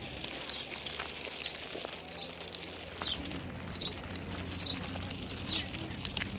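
A bird calling over and over: short, high notes that slide downward, about one a second, over a low steady hum.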